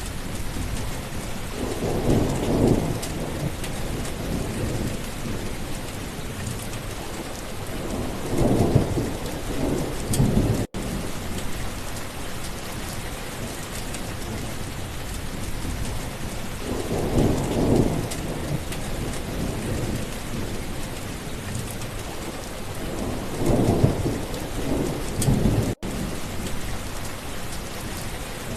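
Steady heavy rainfall with thunder rumbling four times, low and rolling, each lasting a second or two. The sound cuts out for an instant twice.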